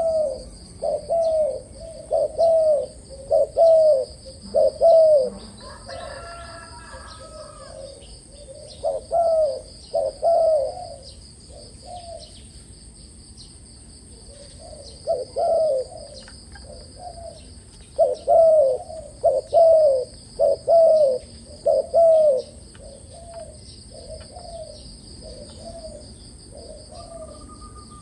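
Spotted dove cooing: repeated phrases of low, arched coos, several loud runs of four or five coos, with fainter coos near the end. A steady high-pitched whine runs underneath.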